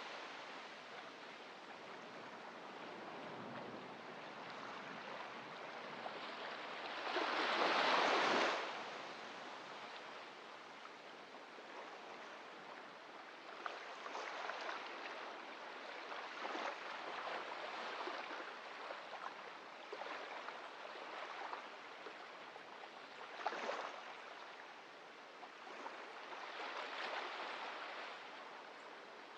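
Small waves breaking and washing up a beach, the loudest one breaking about eight seconds in, with softer washes of surf following at uneven intervals.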